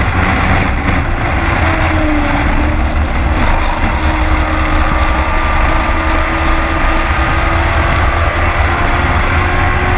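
Race truck's engine running loud and steady, heard from inside the cab, a heavy, dense low rumble with no clear revving up or down.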